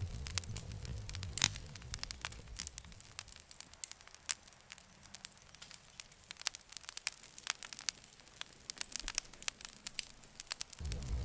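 Wood campfire crackling, with many sharp pops and snaps scattered throughout. A low rumble beneath the crackle fades away over the first few seconds and comes back suddenly just before the end.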